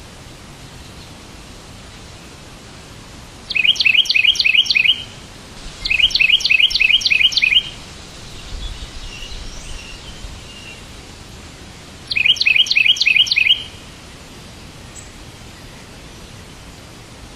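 A songbird chirping in three quick bursts of repeated high notes, about four notes a second. Softer twittering comes between the bursts, over a steady background hiss.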